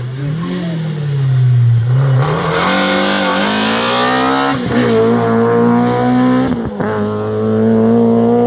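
Rally car engine revving hard under acceleration, its pitch climbing and dropping several times, with brief breaks about halfway and near three-quarters through.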